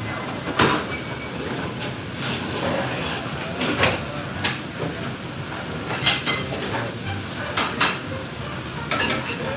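Kitchen clatter: sharp clicks and knocks of utensils and dishes every second or so, over a steady hiss.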